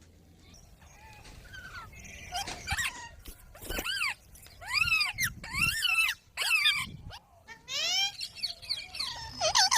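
Green parrot calling: a run of short, shrill calls that each rise and fall in pitch. They begin a couple of seconds in, come thickest and loudest around the middle, and come again near the end.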